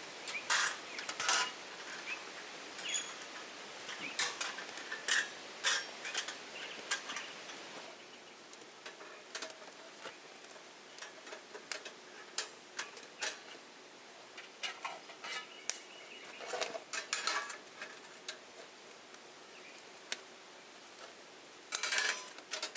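Camp kitchen clatter: irregular clinks and taps of cutlery and dishes, some ringing briefly. The clinks are busiest in the first eight seconds and again in a short cluster near the end.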